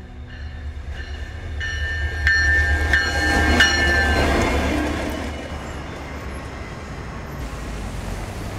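Alaska Railroad diesel locomotive passing by: a low engine and rail rumble builds to a peak about halfway through, then fades away. Near the loudest point there is a high squeal with a few sharp clicks from the wheels on the track.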